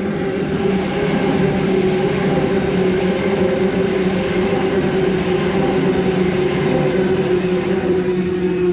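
Sydney Trains B set (Waratah Series 2) electric multiple unit passing through the station, a loud, steady running noise with a held hum.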